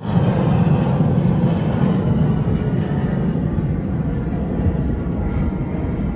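A loud, steady engine drone that starts abruptly and eases off slowly.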